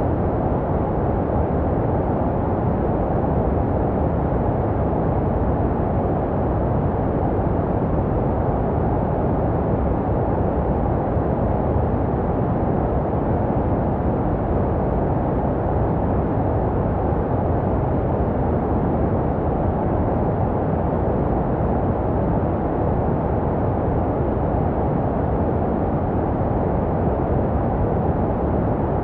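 Steady, unchanging white noise filtered to a muffled, low-heavy hiss with little treble, made to resemble the sounds a baby hears in the womb.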